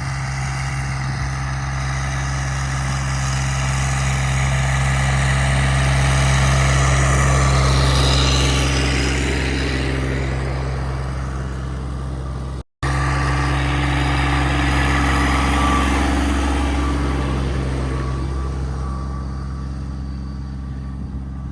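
An engine running steadily with a deep hum, growing louder toward the middle, cutting out for an instant a little past halfway, then carrying on and easing slightly.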